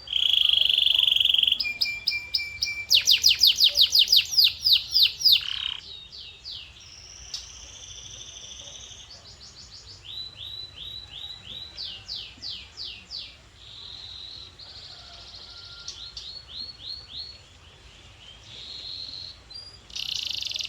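Male canary singing a varied song of fast repeated notes and trills, loud in the first few seconds, then quieter phrases, with a loud trill again near the end.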